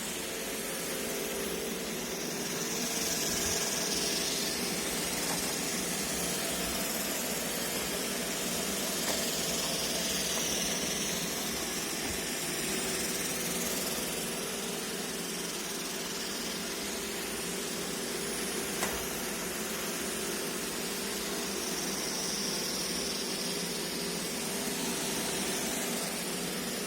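iRobot Roomba e5 robot vacuum running, a steady whir with a hiss that swells and fades every few seconds, and a faint click about nineteen seconds in.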